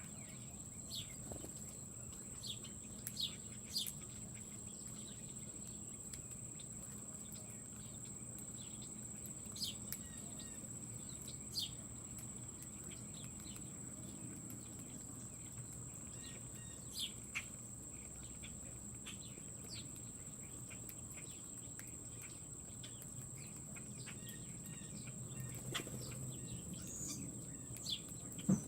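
Wild birds at a feeder giving short, scattered chirps every second or two, over a steady thin high-pitched tone and a low hum.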